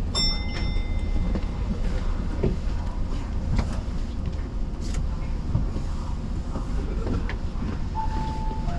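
Keio Inokashira Line train's steady low rumble, heard from the cab. A brief bell-like ring sounds just after the start, and near the end comes a two-note chime, the second note lower.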